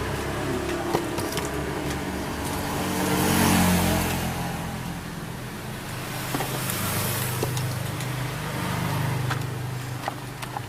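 Motor vehicle engine running, growing louder about three and a half seconds in and again around nine seconds, with scattered light clicks.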